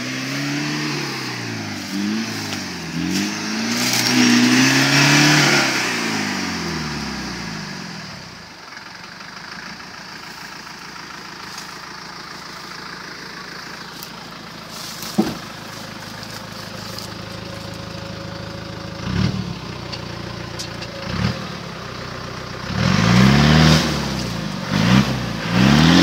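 A Land Rover Discovery's engine revving up and down over and over as the stuck vehicle tries to drive out of deep mud. It drops to a lower, steadier running for a long stretch with a few sharp knocks, then revs hard again near the end.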